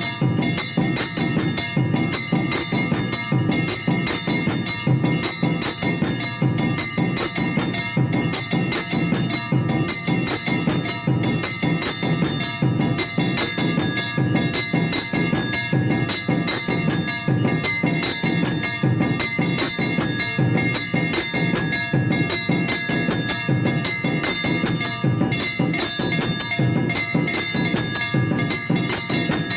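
Temple bells ringing nonstop over fast, steady drumming, the bell-and-drum accompaniment of a Hindu evening aarti.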